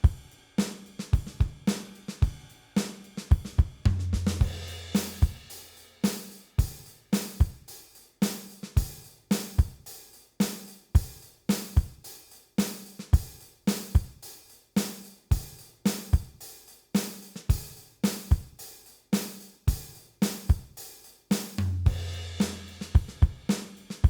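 Instrumental drum-kit beat from a song, with hi-hat, snare and bass drum in a steady rhythm. A low booming bass note sounds about four seconds in and again near the end.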